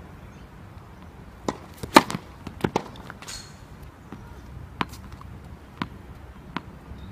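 Tennis balls being struck by racquets and bouncing on the court: a series of sharp pops, bunched together about two seconds in, then single hits about a second apart.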